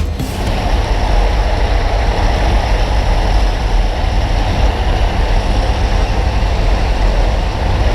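Jump plane's engine and propeller drone heard inside the cabin, a steady, loud, deep rumble with rushing air noise over it.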